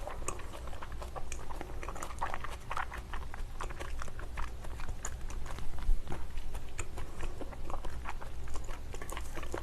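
Close-up chewing of raw salmon sashimi topped with capers and onion: a steady run of soft, wet mouth smacks and clicks.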